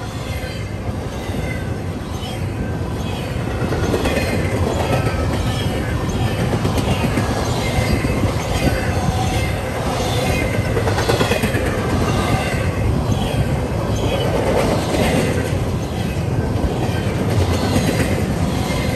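An empty freight train's cars, double-stack well cars and hoppers, rolling past close by: a steady rumble of steel wheels on rail with a repeated clatter, growing a little louder about four seconds in.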